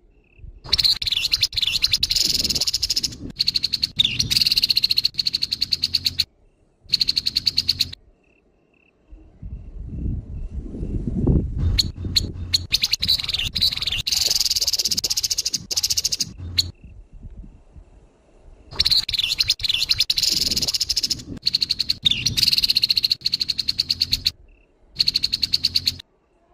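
Grey-headed babbler giving harsh, rapid rattling calls in bouts of a few seconds, separated by short pauses.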